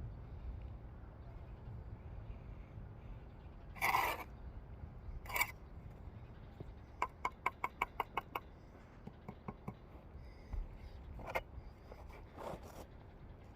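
Bricklaying work: sharp taps and scrapes of a steel trowel on brick and mortar as bricks are set, with a quick run of about ten light taps in the middle.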